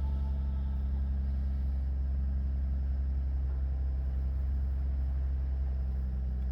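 Lexus IS250's 2.5-litre V6 idling steadily after being started: an even, low hum with no change in pitch.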